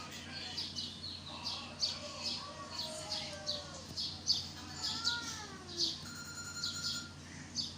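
Small birds chirping: a rapid string of short, high chirps, about two a second, with a few lower gliding notes mixed in.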